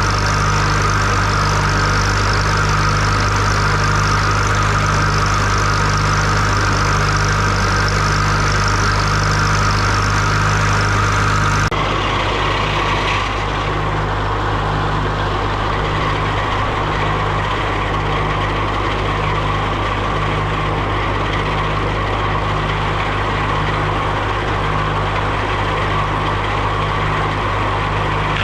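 An engine running steadily, at or near idle, with a slow, even throb. The sound changes abruptly about twelve seconds in to a similar running engine.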